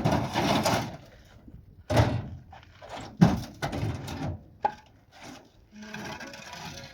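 Knocks and scrapes from block-and-cement building work: four sharp hits spread a second or more apart, then a steady scraping in the last second.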